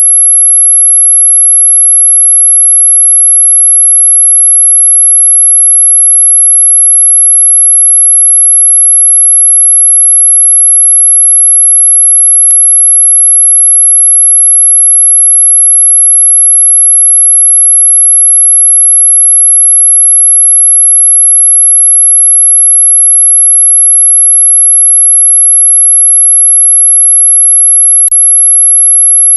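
A steady, very high-pitched pure tone, held loud and unbroken: a synthetic 'anti-mosquito' repellent tone, with two faint clicks partway through.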